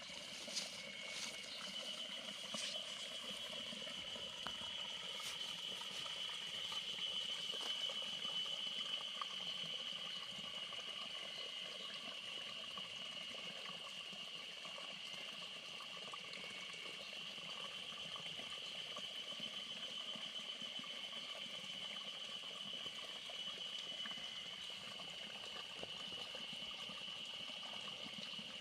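Outdoor ambience of running water, with a steady high-pitched hum and a few faint clicks in the first few seconds.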